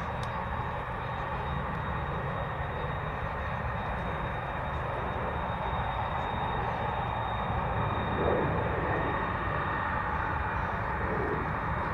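Jet airliner engine noise: a steady rumble and rushing hiss with a thin, steady high tone, swelling slightly about two-thirds of the way through.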